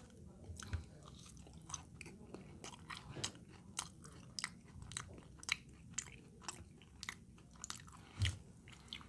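A person chewing a mouthful of a trash plate (burger patty, fries, chili and macaroni salad) close to the microphone, with faint wet mouth clicks and smacks about once or twice a second.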